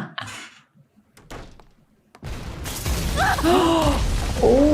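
Anime fight-scene sound effects: a quiet stretch with a few clicks, then from about two seconds in a loud low rumble with a drawn-out, voice-like cry rising and falling over it several times.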